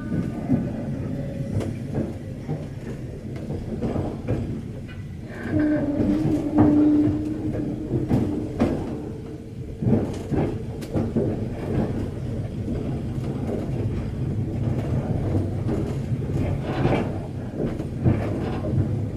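Train running along the track, a steady rumble with repeated knocks of the wheels over rail joints, and a low steady tone for about two seconds near a third of the way in.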